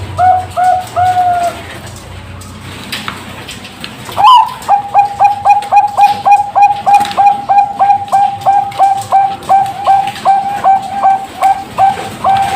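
A Bangkok-type zebra dove (perkutut bangkok) cooing: a short run of quick repeated notes that stops, a pause of about two seconds, then a new phrase opening on a higher note and running into a long even series of about two to three coos a second.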